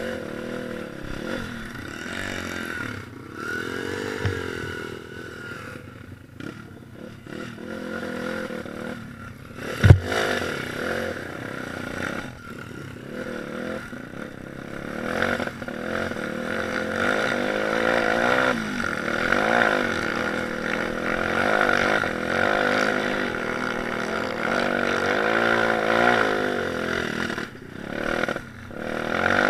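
Small single-cylinder pit bike engine being ridden, its revs rising and falling again and again through the gears, with one sharp knock about a third of the way through.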